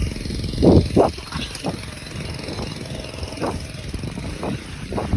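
Wind rushing over the microphone and tyre rumble from a moving bicycle, with a few short, louder thumps, the strongest about a second in.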